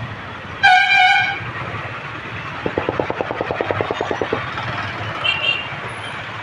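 Royal Enfield Bullet 350 single-cylinder engine thumping with evenly spaced exhaust beats, about ten a second in a run near the middle. A loud vehicle horn honks once, just under a second long, about half a second in.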